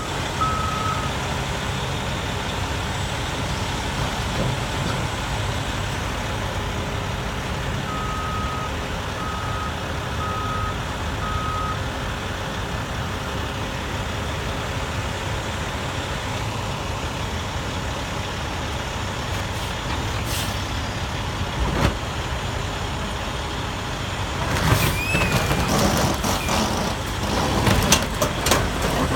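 Bulldozer diesel engine running steadily, with its reversing alarm beeping at the very start and again in a short run of beeps about eight seconds in. Near the end, a clatter of metal clanks and squeals.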